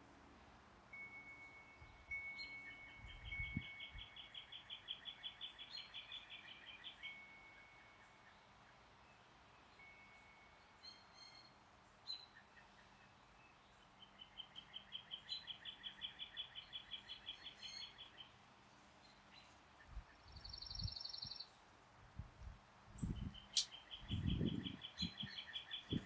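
A songbird repeating a long, rapid trill three times, with wind chimes ringing softly in between. Low gusts of wind buffet the microphone in the last few seconds.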